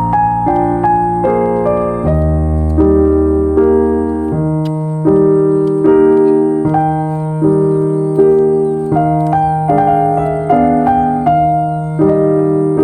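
Calm piano background music: soft chords struck about once a second over sustained bass notes.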